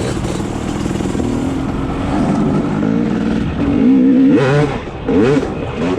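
Dirt bike engine running under way, its revs climbing and dropping repeatedly, with quick sharp rises and falls in pitch in the second half as the throttle is worked.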